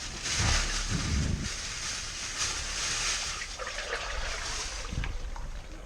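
Water being poured into an overflow pipe to test its flow: a steady splashing pour lasting about five seconds, with a few low thumps in the first second and a half.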